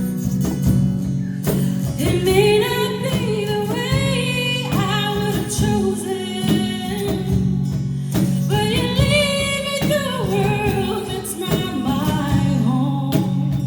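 A woman singing a worship song with guitar accompaniment; sung phrases come in about two seconds in and again about eight seconds in, over steady guitar chords.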